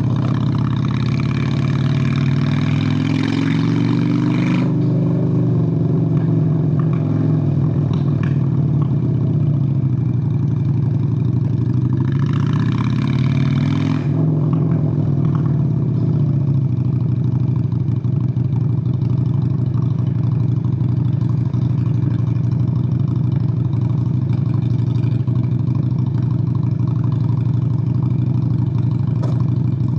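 Honda Steed VLX 600 (Shadow 600) V-twin motorcycle engine under way. It pulls up in revs twice, each time dropping off sharply as the throttle is rolled off, about four seconds in and again about fourteen seconds in. It then runs at a steady cruising speed.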